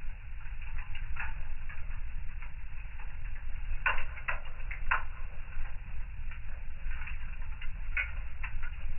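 Wood fire in a fireplace crackling, with irregular sharp pops and a tight cluster of four about four to five seconds in, over a steady low rumble of the burning fire.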